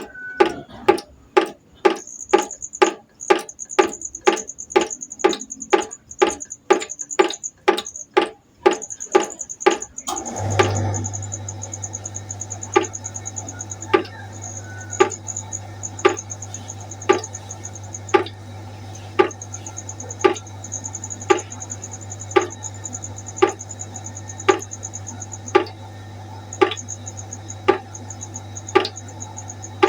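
Water droplets dripping into a pot in an even rhythm, about two drips a second, slowing to about one a second some ten seconds in, when a steady low hum starts. A high pulsing trill runs behind the drips.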